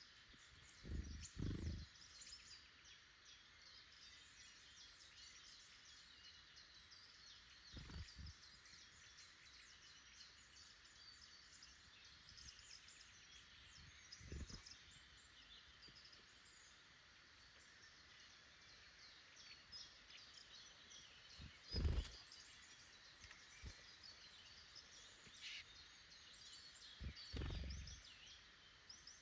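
Faint birdsong from small woodland birds, many short high chirps and calls all through. A few soft low thumps break in now and then, the loudest about two-thirds of the way through.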